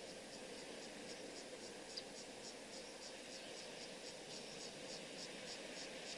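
Insects chirping in a steady rhythm of about three pulses a second over a faint hiss, with a single click about two seconds in.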